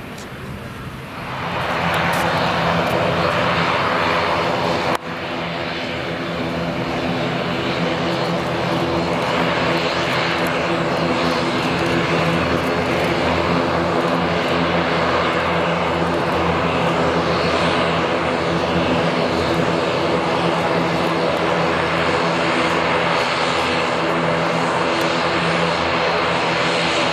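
ATR 72-212A's twin turboprop engines and propellers droning, heard from inside the cabin, with a layered steady hum under a broad roar. The engine sound rises sharply about two seconds in and then holds steady, with a brief click about five seconds in.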